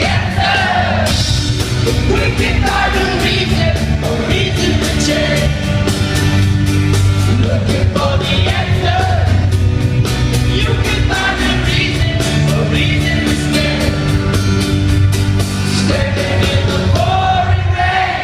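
Live rock band playing, with singing over steady drums and bass.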